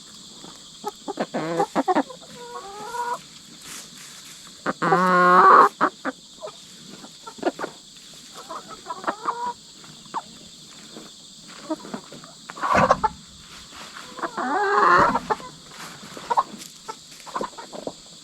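Hens clucking, with a loud drawn-out squawk about five seconds in and another longer one near the end. A steady chorus of crickets runs behind.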